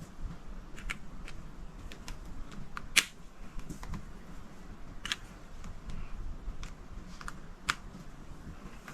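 Colouring on a paper coloring page by hand: faint strokes on the paper with scattered sharp clicks and taps of the colouring tool, the loudest about three seconds in and another near the end.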